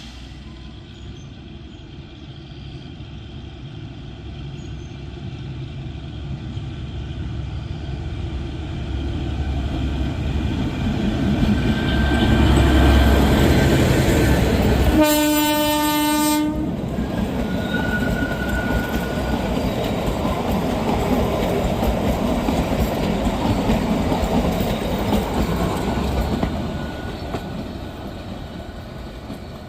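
Kalka–Shimla narrow-gauge train running past, its rumble growing louder over the first dozen seconds and easing off near the end. Its horn sounds once about halfway, one blast of about a second and a half.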